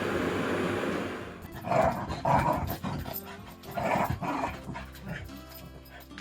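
A vacuum cleaner running steadily cuts off about a second in. A Shiba Inu then gives short growling barks in two pairs.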